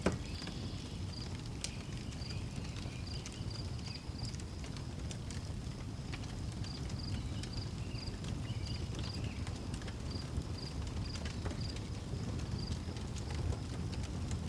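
Outdoor wood fire burning with a steady low rumble and scattered crackles and pops. A cricket chirps in runs of about two chirps a second, and birds give a few short calls.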